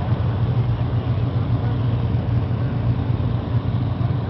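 Ferrari engine idling steadily, low-pitched and even, with no revs.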